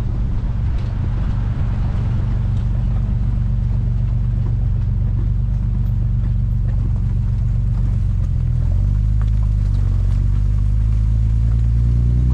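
Classic Triumph sports car's engine running steadily at a cruise, heard from on board with some road and wind noise. The engine note grows a little fuller and louder about two thirds of the way through.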